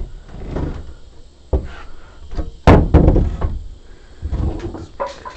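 Rough wooden framing pieces knocking and thudding together, irregular knocks with rustling between, and one loud heavy thud about two and a half seconds in.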